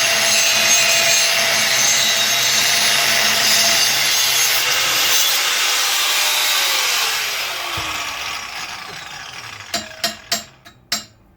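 Power tool, most likely an angle grinder, cutting sheet steel with a harsh hiss and high whine. It is released about seven seconds in and spins down with a falling whine, followed by a few sharp metallic clinks near the end.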